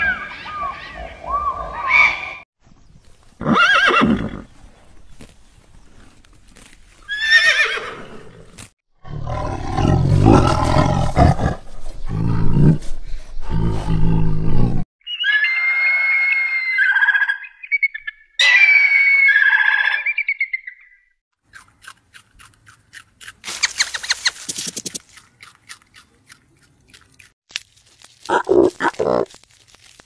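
A run of separate animal calls with short gaps between them: several short calls in the first eight seconds, a loud low call lasting about six seconds in the middle, then high ringing calls of an African fish eagle in two bursts. Faint rapid clicking follows, and a short cry comes near the end.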